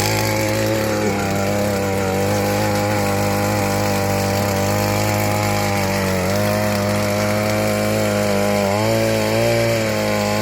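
A small engine running steadily, with its pitch sagging briefly a couple of times, as if under load.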